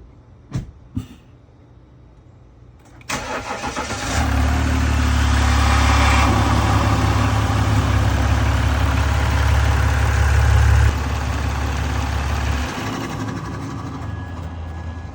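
Two short clicks, then a 3.0-litre EcoDiesel V6 turbodiesel cranks at about three seconds and starts with a deep, steady running sound. It runs at a raised speed for several seconds, then drops in level in two steps and settles toward idle near the end.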